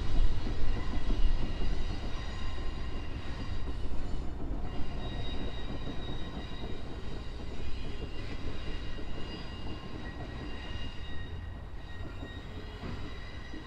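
Freight wagons hauled by an NR class diesel locomotive rolling past on the track: a steady low rumble with thin, high, steady squealing tones from the wheels, slowly getting quieter.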